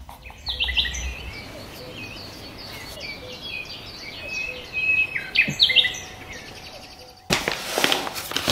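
Small birds chirping, a quick run of short high chirps and whistled notes repeating over and over. About seven seconds in, a louder noisy sound starts.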